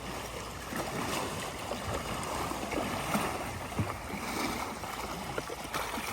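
Creek water splashing and trickling around a kayak, with scattered small splashes.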